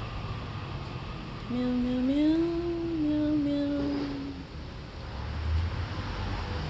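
A person humming one long sung note that glides up and then holds, starting about a second and a half in and lasting nearly three seconds. A low rumble comes in near the end.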